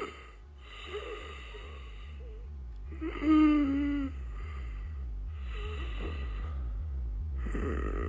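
A person snoring: a noisy rasping breath about every two seconds, with one loud pitched snort about three seconds in, over a steady low hum.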